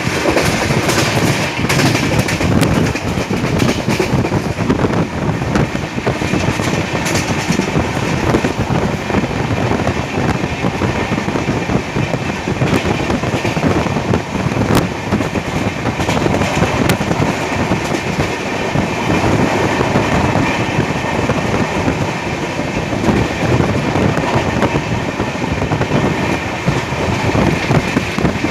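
Passenger train running on the track: a steady loud rumble of the coaches, with the clatter of wheels over the rails.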